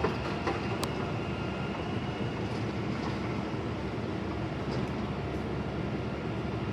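A garbage truck's engine running with a steady low rumble, with a single light click under a second in.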